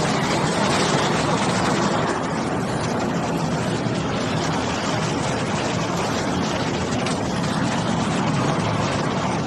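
Wood debarker and chipper line running steadily: a dense, even mechanical din with fine rapid clatter throughout.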